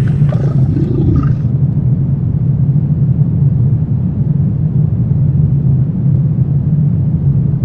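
Steady low rumbling drone of a dark horror ambience. In the first second and a half a fainter sound glides in pitch and fades out.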